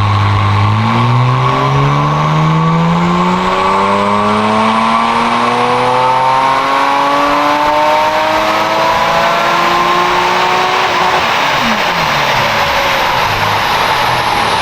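Porsche Cayman's 3.8-litre flat-six making a full-throttle chassis dyno pull: it holds steady for about a second, then revs climb smoothly for about ten seconds, and near the end it lets off and the revs fall away.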